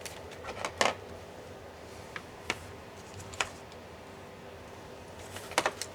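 Sharp plastic-and-metal clicks and taps of laptop parts and small tools being handled during disassembly: a few near the start, two single ones in the middle, and a quick run of three near the end.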